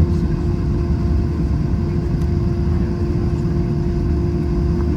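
Airbus A321 cabin noise: a steady low rumble with a constant mid-pitched hum running underneath.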